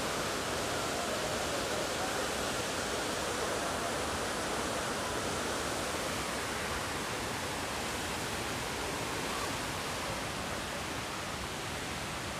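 Steady, even rush of a waterfall: water pouring down and splashing into the pool below.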